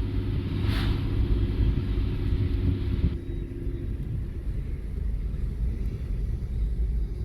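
Car driving: a steady low rumble of engine and road noise, with a higher hiss that drops away about three seconds in.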